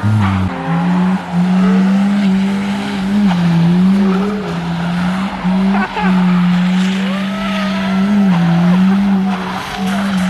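Car engine held at high revs for the whole stretch, its pitch sagging and recovering several times, with tyres squealing and skidding, as in a burnout.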